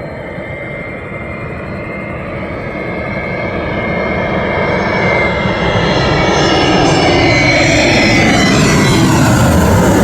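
Airplane engine noise growing steadily louder as the plane approaches. Near the end the sound sweeps in pitch as it passes close by.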